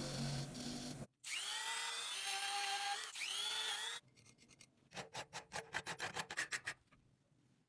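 Workshop tool work on a part: a tool runs against it with a steady hum, stops briefly, then runs again with a shifting pitch, followed by a quick series of rubbing or scraping strokes that fade out.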